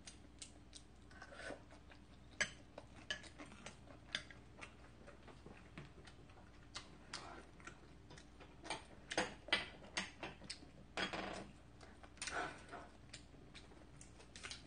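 Close-miked chewing of a shrimp: faint, irregular mouth clicks and smacks, growing louder and busier past the middle.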